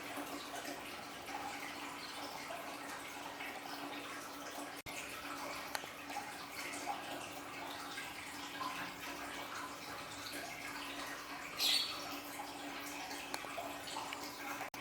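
Aquarium waterfall trickling and splashing steadily, over a steady low hum. A short, louder splash comes about twelve seconds in.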